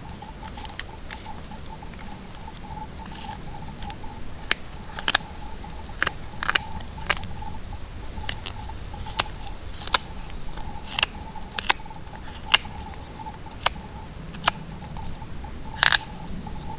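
Irregular sharp clicks and taps, about one or two a second, the strongest near the end, over a faint steady high tone.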